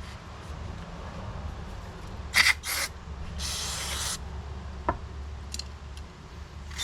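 Pressurised cleaning spray hissing onto carburetor parts: two quick squirts a few seconds in, then a longer spray of under a second.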